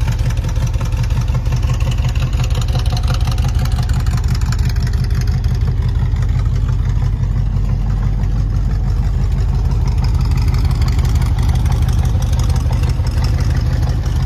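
A 401 cubic-inch Buick Nailhead V8 in a 1931 Ford Model A hot rod idling steadily, with a fast, even exhaust pulse.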